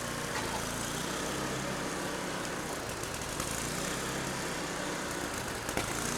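A neighbour's small snow blower engine running unevenly, its low engine note coming and going, typical of a main jet or mixture that is not right.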